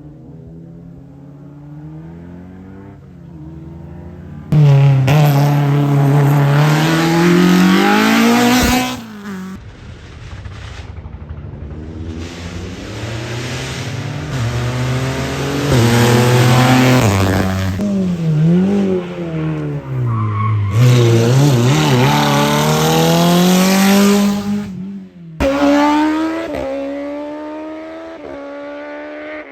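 Racing cars at full throttle, engines revving up hard and dropping back at each gear change as they pass. Several separate passes follow one another, with the loudness jumping suddenly about four seconds in and again near the end.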